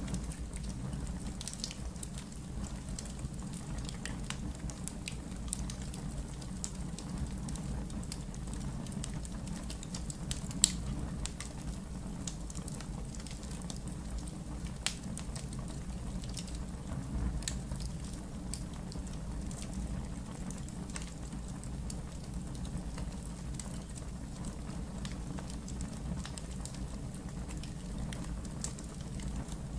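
Wood logs burning in a fireplace: a steady low rumble of flame with scattered crackles and pops. The loudest pop comes about ten seconds in.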